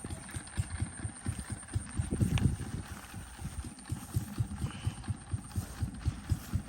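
Yanmar 725 tractor's diesel engine chugging at low speed, a quick, even run of low thumps.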